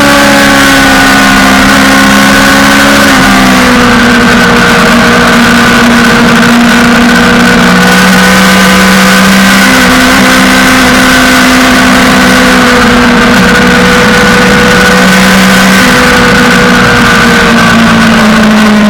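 Suzuki GSX-R600 inline-four sportbike engine held at high revs under sustained throttle, its pitch nearly steady with a slight dip about three seconds in, over loud rushing wind noise.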